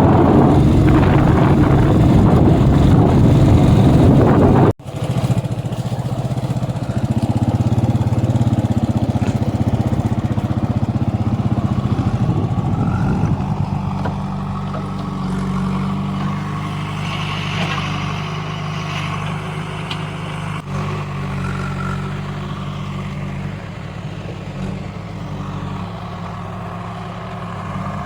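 Heavy diesel engine running steadily. It drops out abruptly for an instant about five seconds in, then carries on a little quieter and steadier.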